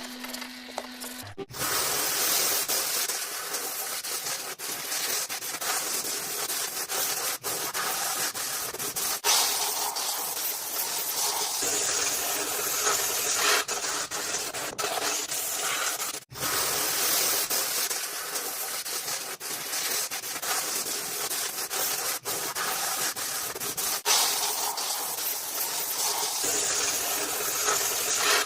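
Steady hissing, rubbing noise of abrasive or spray work on a surface, cutting off briefly about halfway through.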